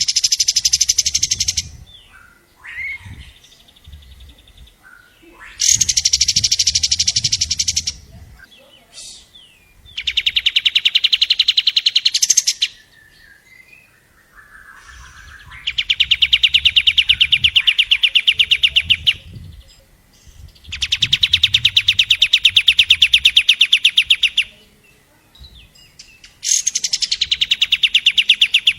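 Long-tailed shrike (cendet) singing in full voice: six long bursts of rapid, evenly repeated chattering notes, each two to four seconds long, with short calls in the pauses between them.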